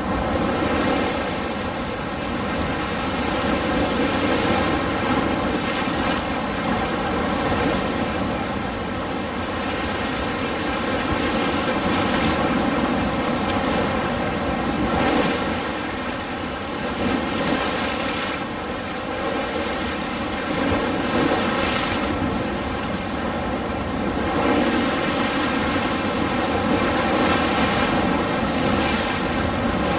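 Ocean waves breaking and washing in as a continuous surf, swelling and easing every few seconds.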